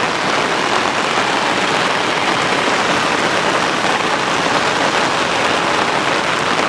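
Heavy rain falling steadily, hitting the umbrella held over the microphone.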